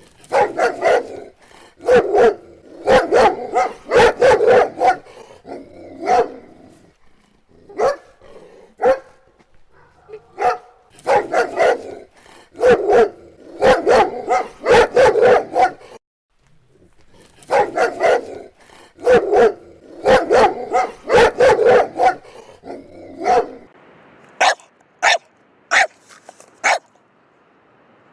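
Dog barking in loud runs of quick barks, with brief pauses between runs. Near the end, sharper, higher-pitched single barks come about every half second.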